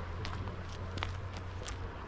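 Footsteps, a few irregular crunching steps, over a steady low hum.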